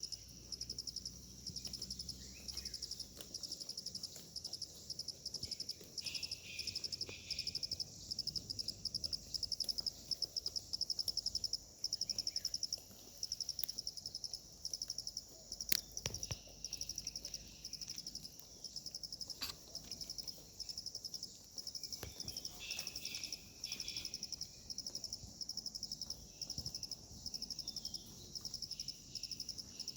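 Crickets chirping: a high, rapidly pulsed trill repeating in short bursts without a break, with fainter lower chirps now and then and one sharp click about halfway through.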